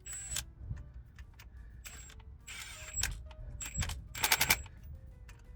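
Impact gun running in several short bursts, snugging bolts up before they are torqued by hand; the longest and loudest burst comes about four seconds in.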